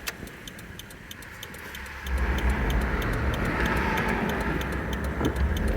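Mercedes turbo diesel engine in a 4Runner, heard from the cab: its low rumble grows louder about two seconds in as it pulls away. Over it runs a steady, fast ticking.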